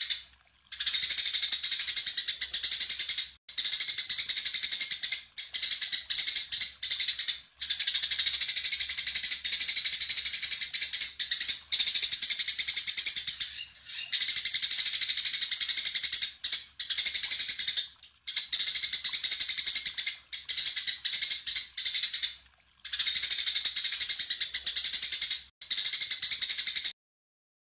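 White-rumped shama (murai batu) singing a dense, high-pitched run of song in long bouts broken by brief pauses, cutting off suddenly near the end.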